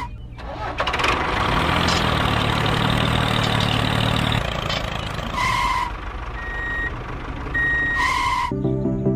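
Engine-type running noise with a low hum for a few seconds, and a short beep every two to three seconds like a reversing alarm. Music comes in near the end.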